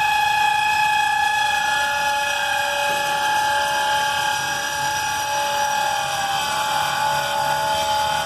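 Locked-up brakes on railcars being pulled along the track, the wheels dragging with an ear-piercing, very high-pitched squeal made of several tones at once that sag slightly in pitch in the second half.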